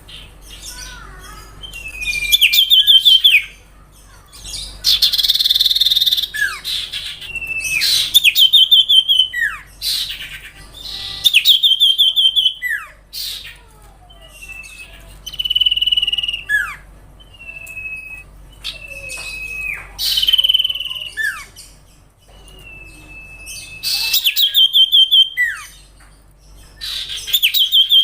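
A songbird of the kind Indonesian keepers call 'sirtu' singing loud, repeated phrases every few seconds. Each phrase is a fast stutter of high notes followed by one or two sharp downward slurs. One harsher, raspier phrase comes about five seconds in.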